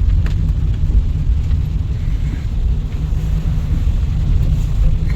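Steady low rumble of a car driving, heard from inside the cabin, with a faint hiss of tyres and road noise above it.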